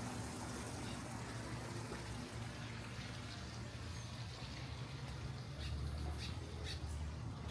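Outdoor background noise: a steady low rumble, with a few short, high chirps in the last two seconds.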